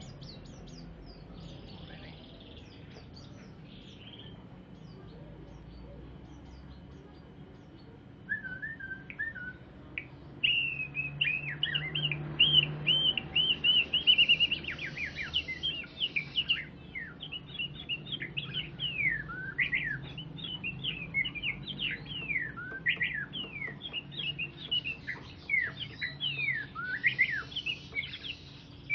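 A songbird singing: after faint chirps over a low hum, a short trill comes about a third of the way in, then a loud fast run of high repeated whistles gives way to quick falling whistled sweeps that continue through the rest.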